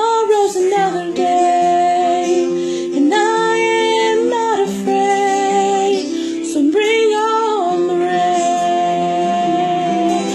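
A woman singing three long held notes with no clear words, over a quieter accompaniment.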